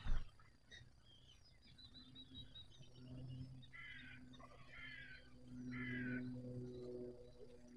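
Birds chirping, with three short harsh calls in the middle and a steady low hum underneath; a single sharp thump right at the start.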